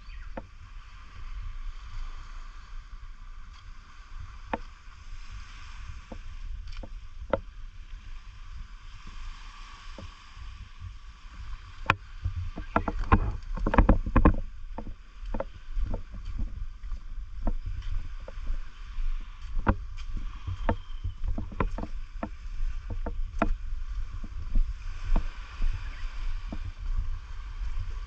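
Seawater lapping and splashing at the beach's edge, with a steady low wind rumble on the microphone and many scattered sharp clicks and splashes, busiest about halfway through.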